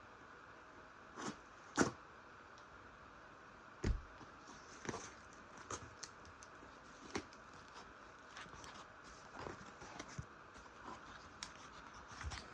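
Packaging of a mailed parcel being handled and opened by hand: scattered clicks, crackles and short rustles, with two louder knocks about two and four seconds in.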